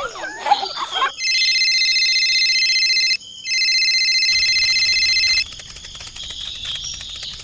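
Telephone ringing: two long electronic rings of about two seconds each, with a short break between them. Crickets chirp steadily after the rings stop.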